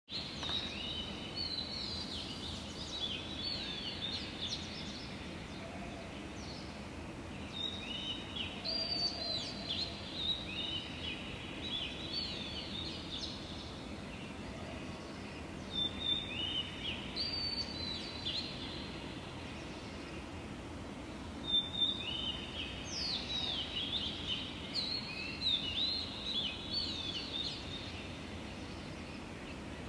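Songbirds singing dawn chorus in bouts of quick, sliding whistled notes, separated by short pauses. Underneath is a steady low hum of background noise.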